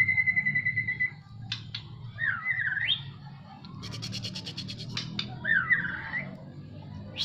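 Jabes songbird singing loudly: a held whistle, then rapid chattering trills and two swooping notes that dip and rise, over a steady low hum.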